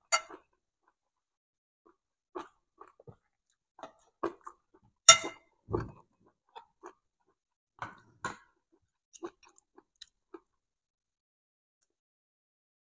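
Close-miked chewing and eating sounds in irregular short bursts, with a spoon and fork clinking against a plate now and then. The loudest is a ringing clink about five seconds in.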